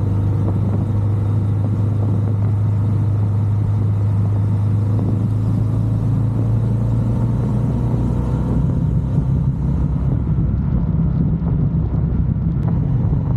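Triumph Bonneville Bobber's 1200 cc parallel-twin engine running steadily with a low, even rumble.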